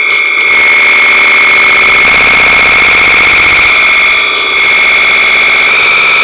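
Loud alarm-like electronic tone held steady on one high pitch, with a harsh buzz beneath it.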